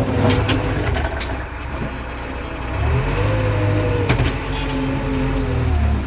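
JCB backhoe loader's diesel engine running and revving up about three seconds in, then easing off near the end, as under hydraulic load. Several sharp knocks in the first second and a loud one about four seconds in.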